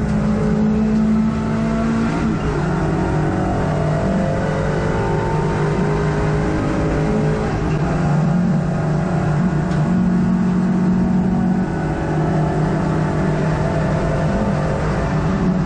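Hot hatch race car's engine heard from inside the cabin, running hard at racing speed. Its note shifts in pitch several times as the driver changes gear and lifts for corners.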